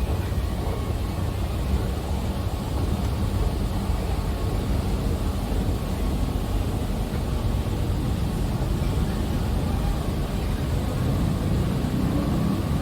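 Bangkok MRT Blue Line metro train running underground: a steady low rumble with rushing noise.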